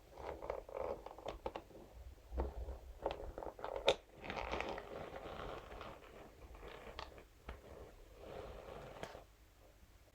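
Scalp massage brush scratching and tapping on a surface: scattered sharp taps and clicks mixed with stretches of scratchy, rustling brushing, the sharpest snap about four seconds in.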